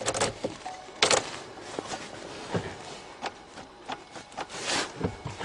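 Irregular clicks, knocks and rubbing scrapes of things being handled, with a brief louder scrape about a second in and another near the end.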